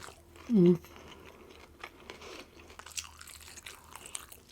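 Close-miked chewing and crunching of crispy rolled tacos, with scattered small crunches and wet mouth clicks. A short, falling hum of the voice comes about half a second in.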